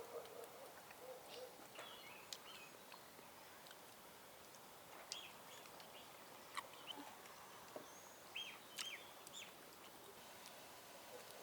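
Faint outdoor quiet with scattered short bird chirps, a few at a time, and a handful of small clicks.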